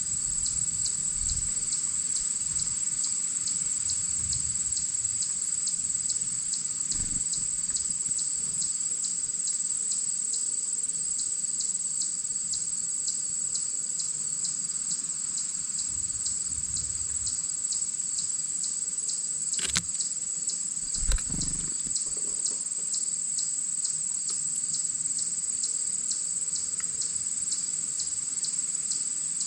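Steady, high-pitched chorus of insects, pulsing evenly about twice a second. Two sharp knocks come about two-thirds of the way through.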